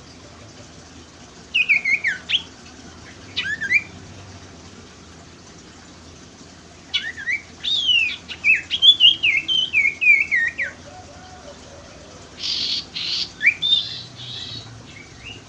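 Sirtu (cipoh) songbird singing phrases of quick whistled notes, most sliding down in pitch. The longest run of notes comes from about seven to eleven seconds in, and a couple of short rasping bursts come near the end. It is a lure song used to get a sirtu that has stopped singing to sing.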